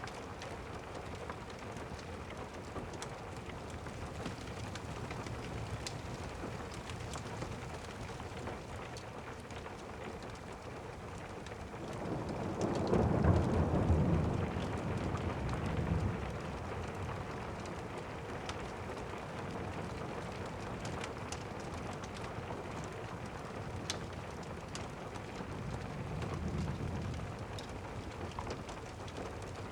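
Steady rain with thunder: a loud low rumble swells about twelve seconds in and fades over four seconds, and a fainter rumble follows near the end. A few faint sharp ticks sit over the rain.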